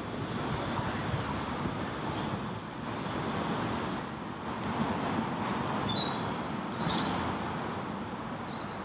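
Small birds chirping in short high notes over a steady outdoor background noise.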